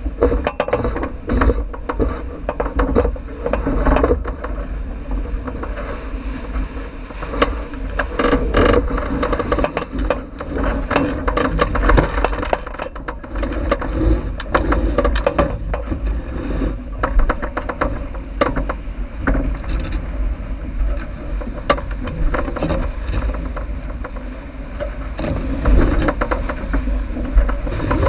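Wind buffeting the microphone aboard a J80 sailboat running downwind, with the rush of water along the hull and frequent small knocks and rattles from the boat.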